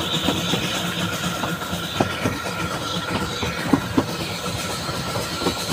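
Narrow-gauge steam train running along the track, heard from an open carriage window: a steady rumble with sharp clicks from the wheels, several in quick pairs, as they pass over rail joints.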